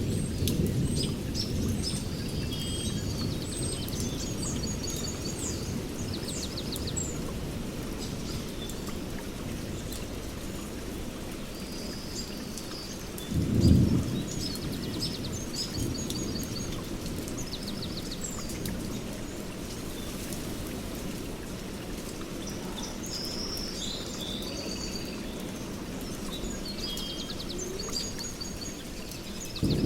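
Steady rain with one short thunder rumble about halfway through, the loudest moment. Birds chirp and trill on and off throughout.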